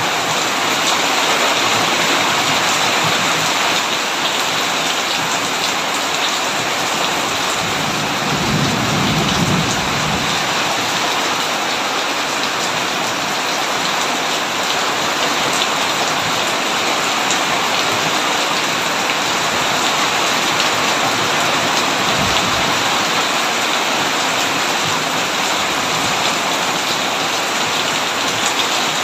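Heavy rain falling steadily on a tin roof, an even, dense hiss throughout. About a third of the way in, a low rumble of thunder swells for a couple of seconds, and a shorter low thud follows later.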